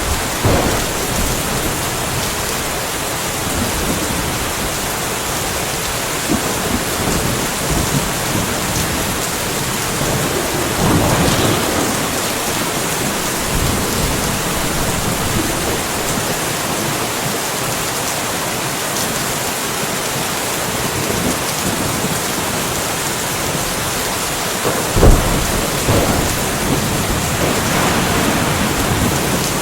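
Steady rain in a light thunderstorm, with thunder crackling and rumbling now and then: a swell about eleven seconds in, a sharp crack about twenty-five seconds in, and another rumble near the end.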